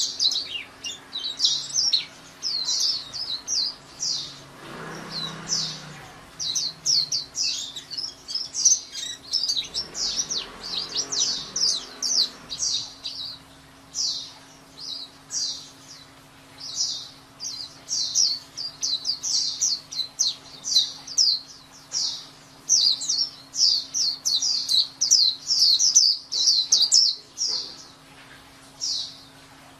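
A pleci (white-eye, Zosterops) singing: long fast runs of high, thin chirps and twitters with only brief pauses, and a short lull near the end.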